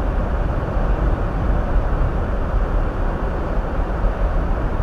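Steady low road and engine rumble heard inside a Hyundai Elantra's cabin as it drives on a snow-covered road.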